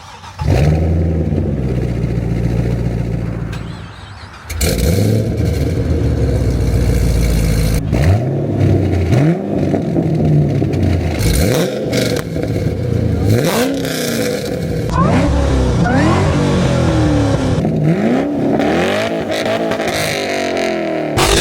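Loud aftermarket-exhausted V8 car engines revving. There is a long held high-rpm rev, a dip about four seconds in, then another long held rev. From about eight seconds in comes a string of quick free-revving blips, roughly one a second, the pitch rising and falling each time.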